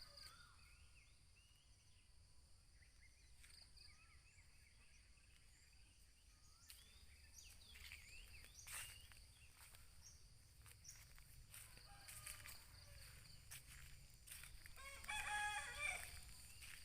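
A rooster crowing, the loudest call about fifteen seconds in, among faint scattered bird chirps over a steady high-pitched hum.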